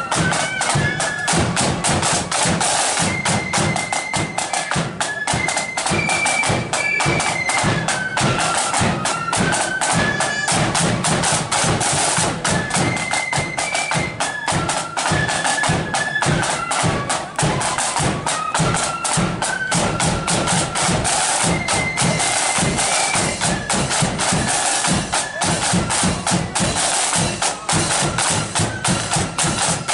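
Marching flute band playing: flutes carry a stepping melody over a steady, dense beat of side drums and bass drum.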